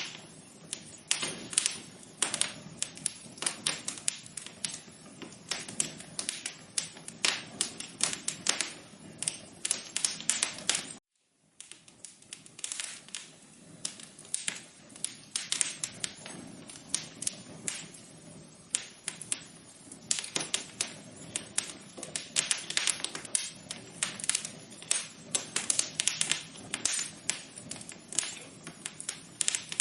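Wood fire crackling in a fireplace: dense, irregular pops and snaps over a low hiss, cutting out completely for about half a second around eleven seconds in.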